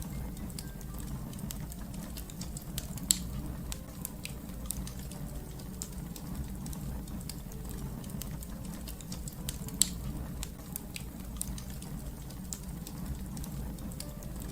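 Fireplace fire crackling: a steady low rumble of burning with irregular sharp crackles and pops throughout, two of them much louder, about three seconds and ten seconds in.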